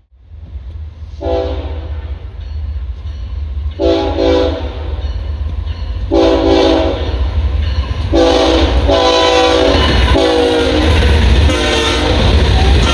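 A train's multi-note air horn sounds a series of blasts of about a second each, the last held longer near the end, over the steady rumble of the passing train.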